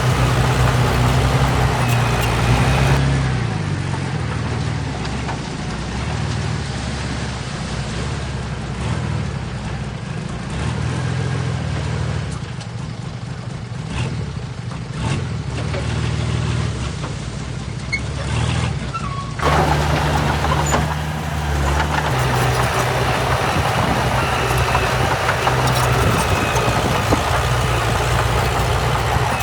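Diesel engines of earthmoving machinery running steadily under load. The sound changes abruptly a few seconds in and again about two-thirds of the way through.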